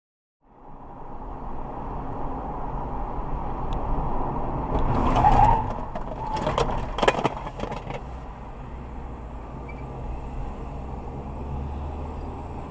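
Car driving, with a steady low engine and road rumble heard from inside the vehicle. About five seconds in there is a loud crunching clatter, followed by several sharp knocks over the next two seconds, and then the steady rumble goes on.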